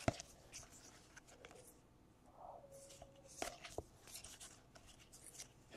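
Faint handling of trading cards: light rustling and a few sharp clicks as the cards are slid and flipped, with a brief faint tone a little past the middle.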